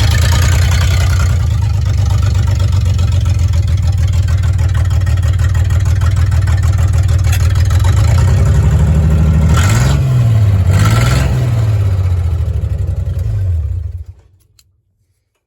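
1987 Dodge Dakota derby truck's engine idling, revved up and back down twice about ten seconds in, then dying about fourteen seconds in: the engine stalls.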